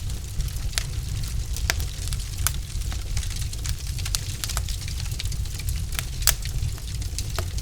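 Wood fire burning in a fireplace: frequent sharp crackles and pops from the logs, the loudest about six seconds in, over a steady low rumble.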